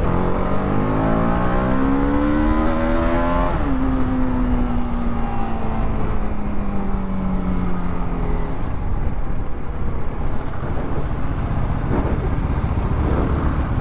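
TVS Apache RR310's single-cylinder engine accelerating, its pitch rising until an upshift about three and a half seconds in drops it sharply. The engine note then sinks slowly and fades under steady wind and road rumble on the helmet microphone about eight seconds in.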